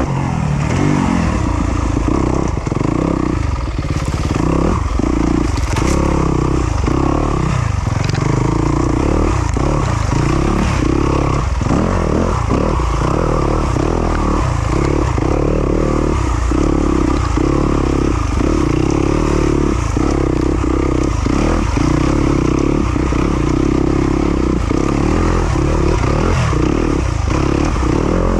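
Yamaha YZ250FX's single-cylinder four-stroke engine running hard under varying throttle, its note dipping briefly again and again as the throttle is rolled off and on.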